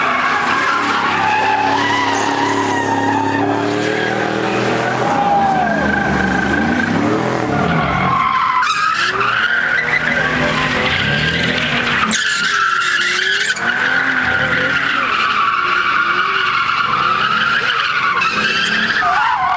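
A car drifting or doing donuts, its tyres screeching without a break while the engine is held at high revs, its pitch rising and falling.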